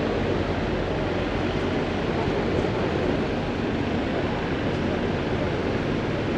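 Steady city street traffic noise heard from a moving bicycle: a constant wash of engines and tyres with no distinct events.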